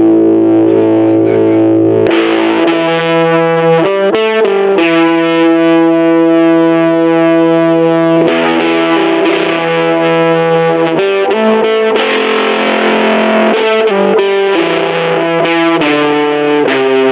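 Electric guitar played through a small battery-powered Junkbox Amplification amp with heavy fuzz distortion. Slow, held distorted notes and chords that ring on and change every few seconds.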